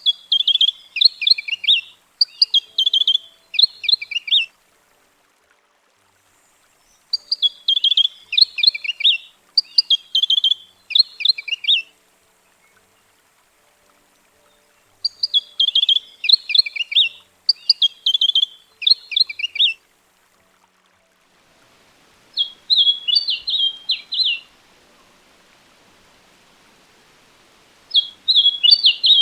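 Flame robin singing: bouts of quick, high trilled phrases that drop in pitch, repeated after pauses of a few seconds. A faint hiss of background noise comes in about two-thirds of the way through.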